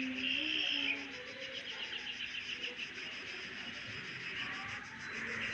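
Rapid, evenly pulsed chirping of insects, with a few short, faint low tones in the first second.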